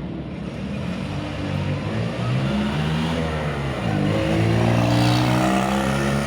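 Car engine accelerating: its pitch climbs, drops sharply at a gear change about four seconds in, then climbs again and holds.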